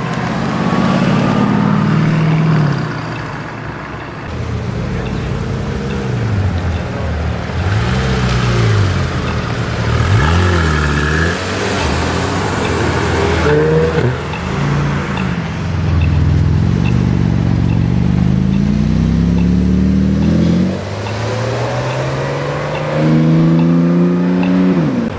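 Sports car engine revving and accelerating, its pitch rising and falling again and again. A long climb in pitch cuts off sharply about twenty seconds in, and another rising run drops away near the end.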